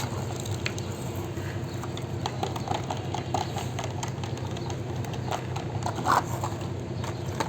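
Irregular light clicks and clatter over a steady low hum, with a few louder clusters of clicks about two to three seconds in and again near six seconds.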